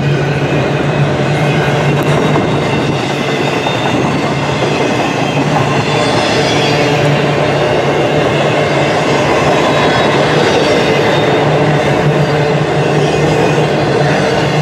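Freight train cars rolling steadily past: the continuous rolling noise of steel wheels on rail, with a steady low rumble.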